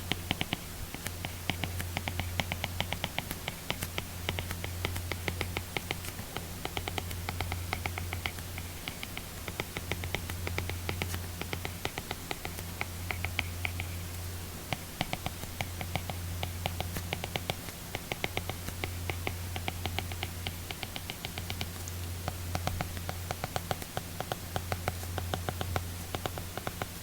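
Apple Pencil tip tapping and scratching across an iPad screen fitted with a paper-texture film, quick clicks of handwriting strokes several times a second, over a steady low hum.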